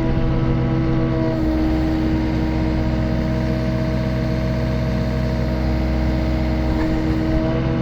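2023 New Holland E60C excavator's Yanmar four-cylinder diesel engine running steadily. Its pitch shifts slightly about a second and a half in and again near the end.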